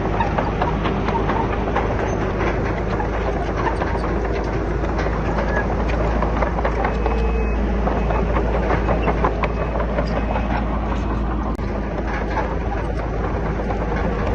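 Heavy diesel earthmoving machinery running steadily under load, with continuous irregular clanking and rattling over a low engine drone.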